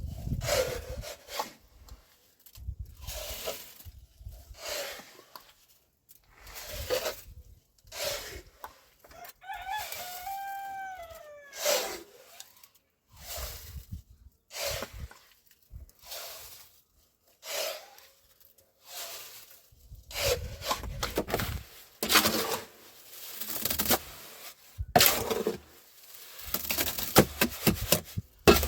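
Repeated short rubbing and scraping strokes of hand work, with a rooster crowing once about ten seconds in. The strokes come faster and sharper in the last third.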